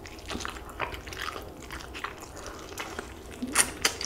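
Close-miked chewing and wet mouth sounds of someone eating a carnitas burrito: soft smacks and squishes, with two sharper smacks near the end.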